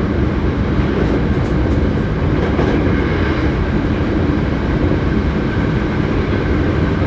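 Hankyu 7300-series electric train running between stations, heard on board: a steady rumble of wheels on rail with faint high ticks now and then.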